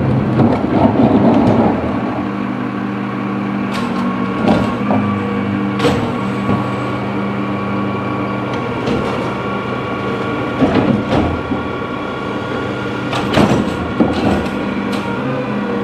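Recycling truck's engine running steadily, with scattered sharp clanks and knocks.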